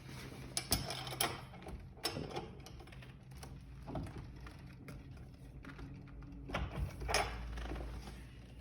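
Wrench tightening the axle nuts on a scooter's front wheel, making scattered metallic clicks and ticks with short bursts of handling noise.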